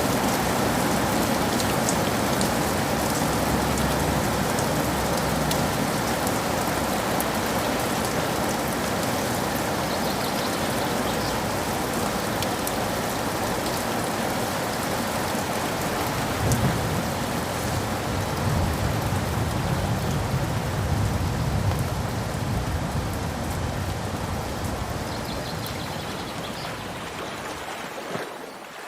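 Steady rain falling, with a low rolling thunder rumble swelling a little past the middle; the rain fades down near the end.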